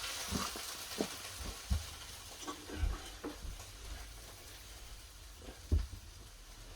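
Scattered light knocks and a few dull thumps of a refrigerator's bottom freezer door being handled and fitted back on, over a steady faint hiss.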